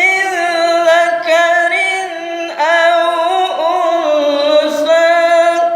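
A man reciting the Quran in melodic tilawah style, unaccompanied, drawing out long ornamented notes in a high voice that slide and waver between pitches, with a couple of brief breaks for breath.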